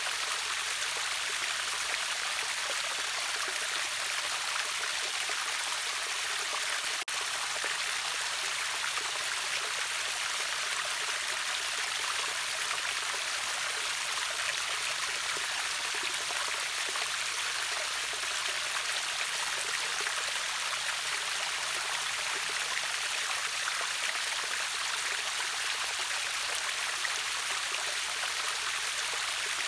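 River waterfall: water rushing steadily in an even, hissing wash, with a momentary dropout about seven seconds in.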